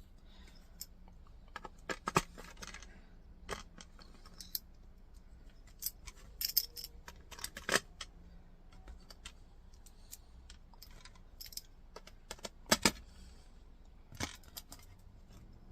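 Irregular small metallic clicks, taps and scrapes of an old broken screw bit prying brass screw inserts out of a plastic part. The loudest clicks come about two seconds in and near thirteen seconds.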